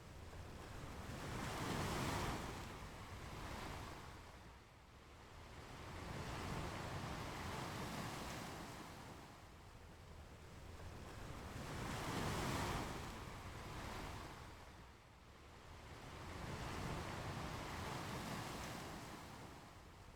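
Ocean waves breaking and washing up a beach, the surf swelling and fading in a slow rhythm, with the biggest breakers about two seconds in and again about twelve seconds in.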